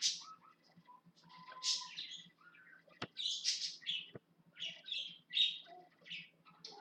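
A small bird chirping and chattering in quick, irregular calls, with a couple of sharp clicks about three and four seconds in.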